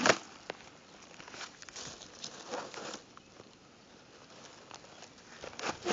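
Soft rustling and crinkling, with a sharp click at the start and scattered fainter rustles over the next few seconds.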